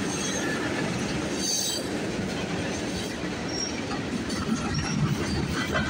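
Freight cars of a CN freight train rolling past: a steady rumble of steel wheels on the rails, with a few short, faint high-pitched wheel squeals.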